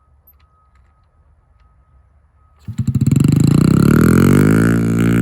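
Dirt bike engine that starts suddenly about two and a half seconds in and revs up steeply, then holds at high revs with the throttle pinned wide open, as in a 'whiskey throttle'. Before it, only a faint steady whine.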